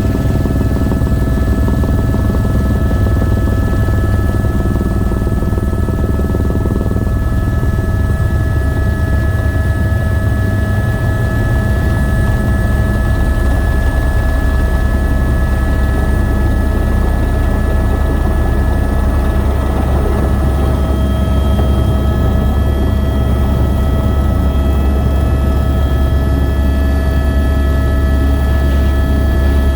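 Helicopter in flight: a steady, loud low rotor throb with several constant whining tones over it.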